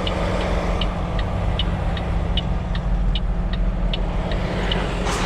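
Semi truck's diesel engine running, heard from inside the cab, with a light, even ticking about two and a half times a second, typical of the flasher relay. Near the end comes a brief, louder burst of noise.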